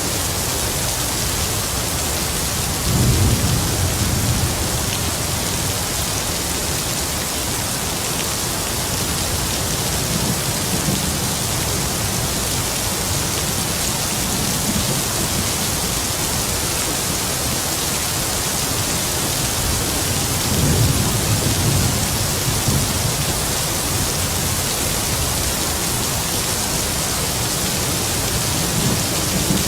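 Heavy rain falling steadily, with low rolls of distant thunder rumbling up several times, the strongest about three seconds in and again about two-thirds of the way through.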